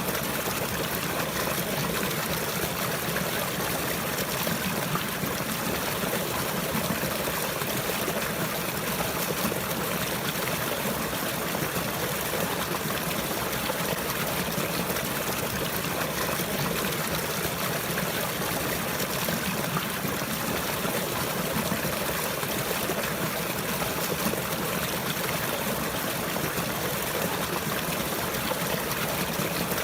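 Running water, a steady stream trickling and splashing evenly without pause.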